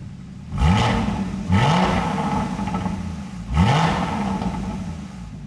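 Six-cylinder car engine revved three times: sharp rises in pitch about half a second, a second and a half and three and a half seconds in, each easing back toward idle.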